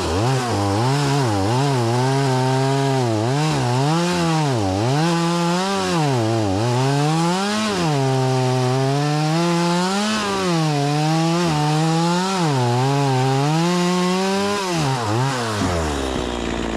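STIHL MS 180 C-BE two-stroke chainsaw at full throttle cutting through a log. Its pitch sags and recovers again and again as the chain bites into the wood, then drops back to idle near the end.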